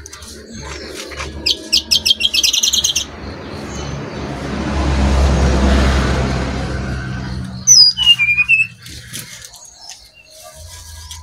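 Brown-chested jungle flycatcher singing: a quick run of high chirps about a second and a half in, then sharp whistled notes falling in pitch about eight seconds in. Between them a rushing noise swells and fades over several seconds.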